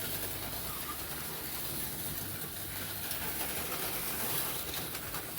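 HO-scale slot cars racing around a plastic track: a steady whir of several small electric motors with the rattle of the cars in their slots, just after the race start.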